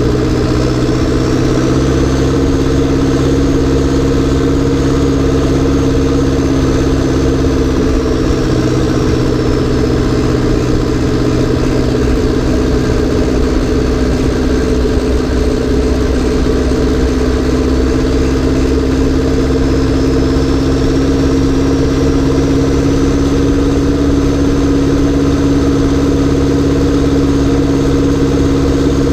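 Massey Ferguson 590 tractor's turbocharged, straight-piped four-cylinder diesel running at a steady speed, with a faint high whistle that rises about a second in and again after about twenty seconds.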